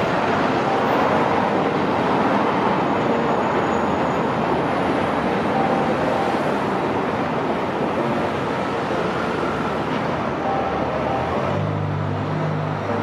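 Pullman passenger coaches rolling steadily over a railway girder bridge: a continuous rumble and hiss of wheels on rail.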